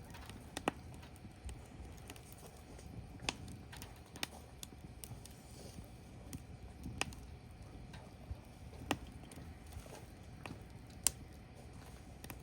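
Firewood burning: irregular sharp crackles and pops over a low, steady rumble of the fire, the loudest pop near the end.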